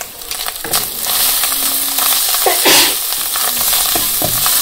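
Onion and ground spices sizzling in hot oil in a kadai while being stirred. The sizzle grows louder about a second in, with a brief louder burst a little past halfway.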